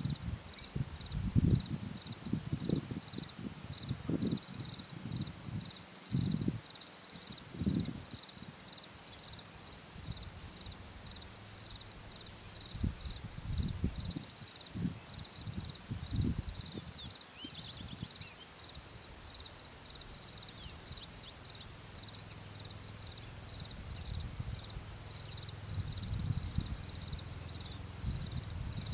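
Insects, crickets or similar, chirring steadily in two high-pitched bands with a fast pulse. Irregular low rumbles come and go underneath.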